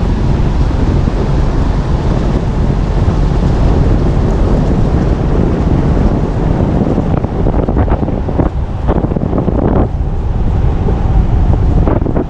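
Steady wind and road noise from a moving car, with wind buffeting the microphone. A few short knocks come about eight to ten seconds in.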